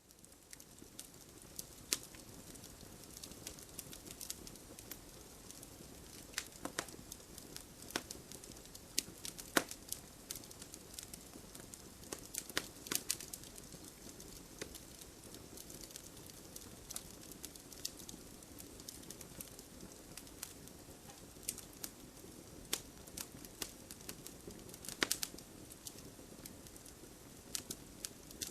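Wood fire burning: a steady low hiss of flames with frequent irregular crackles and pops, and a few louder snaps scattered through.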